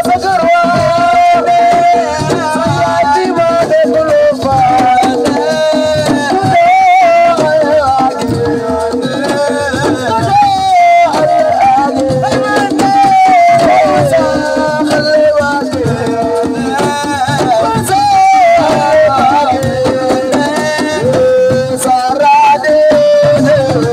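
Assiko band music: a lead voice singing a bending melodic line over steady hand drums and rattling shakers.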